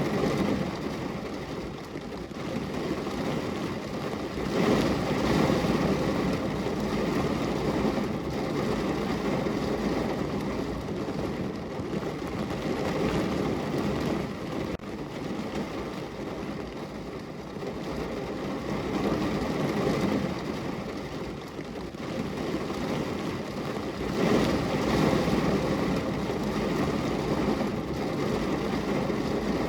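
Heavy rain falling on a car's roof and windows, heard from inside the car: a dense, steady patter that swells louder for a second or two about five seconds in and again near the end.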